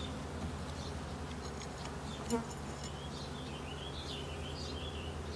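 Honeybees buzzing as a steady hum around an open hive, with a short click a little over two seconds in and a high wavering sound near the end.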